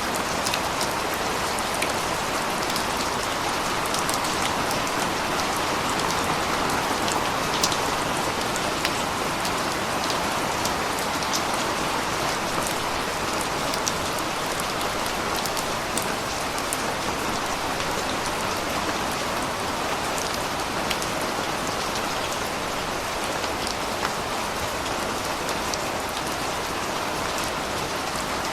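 Steady rain falling and pattering on surfaces, with scattered distinct drop ticks over an even wash of rain noise.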